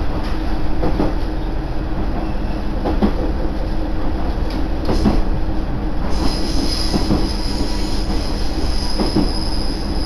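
Koumi Line railcar running, heard from inside the passenger cabin: a steady rumble with a knock from the rails about every two seconds. About six seconds in, a high steady whine of the wheels joins it.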